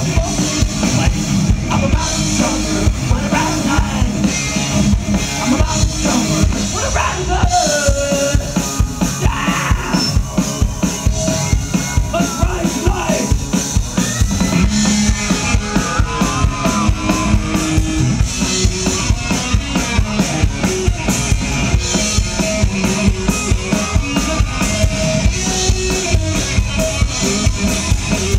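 Live rock band playing an instrumental passage, a drum kit keeping a steady, driving beat under melodic instrument lines.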